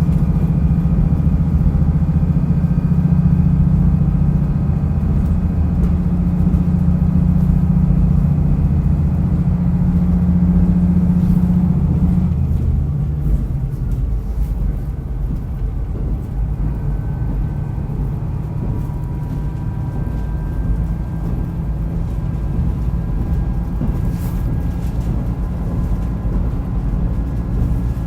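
Diesel railcar running on the line, its engine pulling steadily, then the engine note drops away about twelve seconds in as the power is shut off, leaving the lighter, steady running noise of the train coasting.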